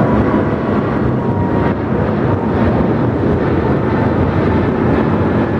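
Jet airliner engines running, a loud steady rush with a faint thin whine over it.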